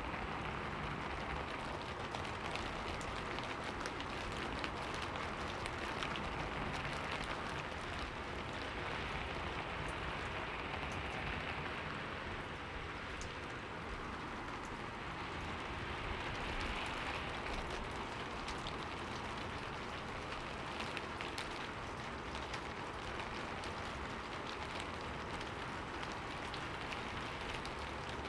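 Steady rain falling and pattering on a window, with many small drops ticking against the glass.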